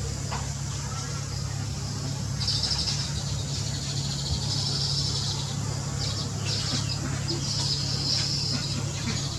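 Small birds calling in high-pitched, buzzy bursts about a second long, repeated several times, over a steady low hum.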